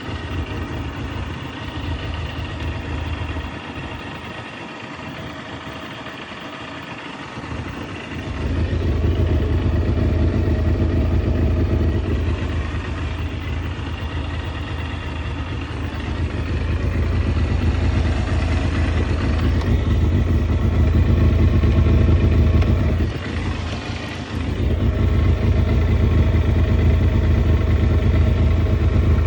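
Suzuki GSX250FX's 250 cc inline-four engine running at idle. It gets louder about eight seconds in and stays up, with a brief drop about three-quarters of the way through.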